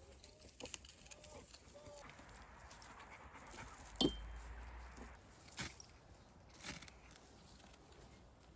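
A dog whimpering faintly, then a few sharp snaps and knocks of pine wood being handled and added to a campfire, the loudest about four seconds in.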